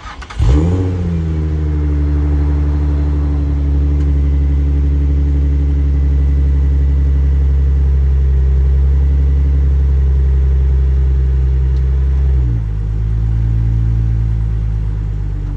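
Infiniti G35's 3.5-litre V6 starting up about half a second in, flaring briefly, then settling to a steady fast idle. Near the end the idle dips slightly as the car is put into reverse.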